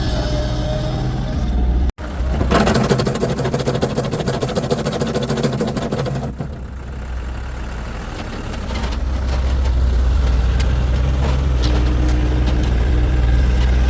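A heavy vehicle engine running, with a fast rattling clatter for a few seconds after a brief dropout about two seconds in, then settling into a steady low drone.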